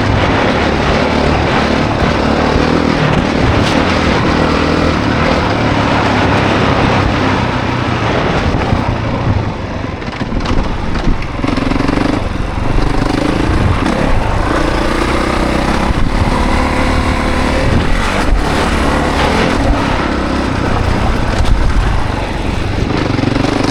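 2024 Honda CRF450 dirt bike's single-cylinder four-stroke engine being ridden, its pitch rising and falling with the throttle and briefly backing off about ten seconds in, with heavy wind noise.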